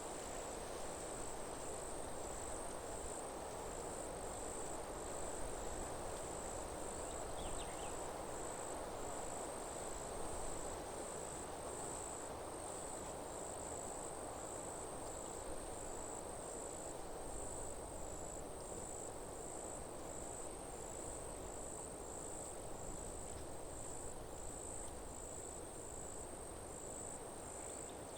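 An insect, cricket-like, chirping high and steady in even pulses about once a second, over a steady hiss of wind in the trees.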